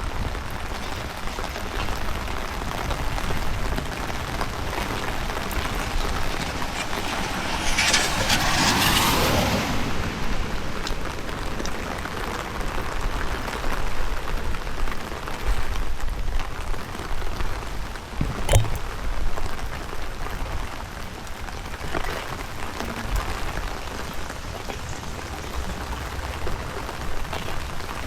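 Steady rain falling, with wind rumbling on the microphone. A louder rushing swell builds and fades about eight seconds in, and there is a single sharp click a little after eighteen seconds.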